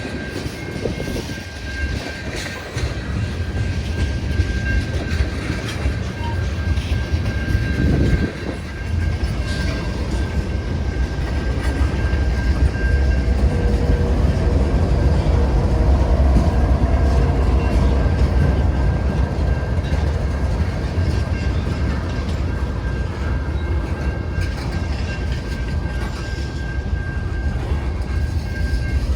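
CN freight train rolling past, a steady rumble of cars on the rails with a thin, steady high-pitched whine over it.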